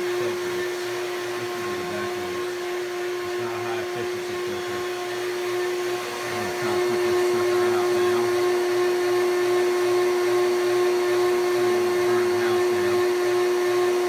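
Vacuum system motor running steadily, with a constant high hum over its rushing air, blowing its exhaust through a 3-inch PVC line at about 1,000 feet per minute. It gets slightly louder about six seconds in.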